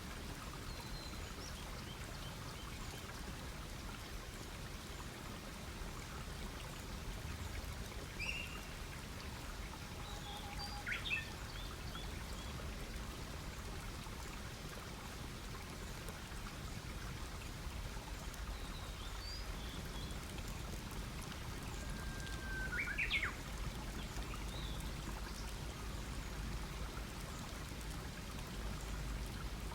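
Wood campfire burning with a steady hiss and crackle. A few short bird chirps are scattered through it.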